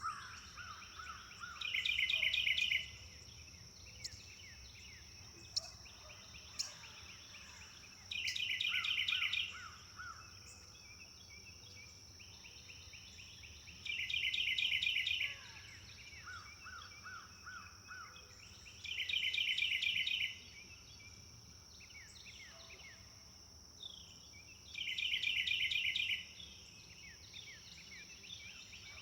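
A songbird repeating the same short, rapid trilled phrase five times, about every five to six seconds, each lasting just over a second. Softer, lower trills and chirps fill the gaps, over a steady high-pitched hum.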